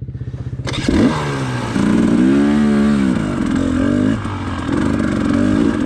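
Dirt bike engine idling, then about a second in it revs hard. It rises and falls in pitch again and again as the bike is ridden up over rocks on a trail.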